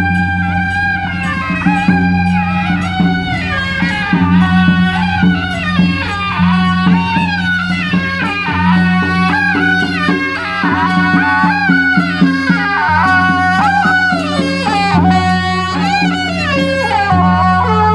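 Traditional Taiwanese procession music: a loud reed horn of the suona type plays a bending, ornamented melody over steady low accompanying tones that change every couple of seconds.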